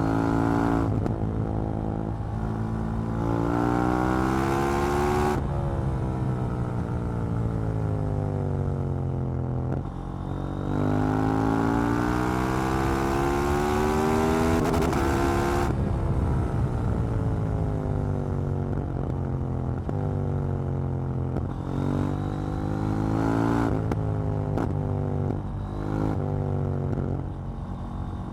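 KTM 790 Duke's parallel-twin engine under way, climbing in pitch through the gears twice with sudden drops at the shifts, then falling away on engine braking, with a choppy run of short throttle rises and falls near the end.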